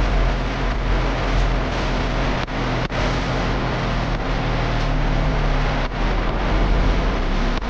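Tractor engine running steadily under load, a continuous low rumble with heavy mechanical noise and a few very brief dropouts.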